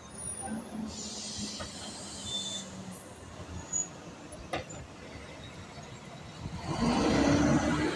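City street traffic: vehicles running, with a hiss about a second in and a louder vehicle passing close near the end.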